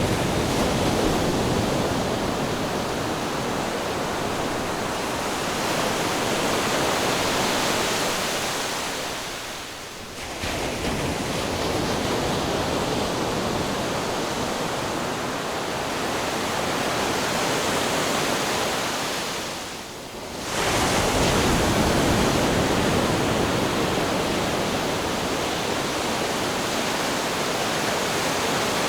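Ocean surf rushing steadily, easing briefly twice, about ten seconds apart, before the next wave washes in.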